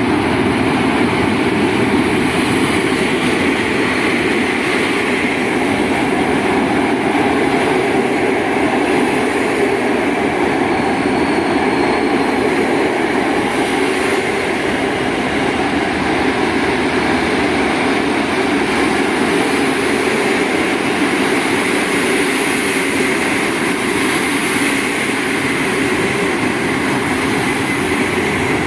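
Train running on the rails: a steady, unbroken noise of wheels and running gear on the track.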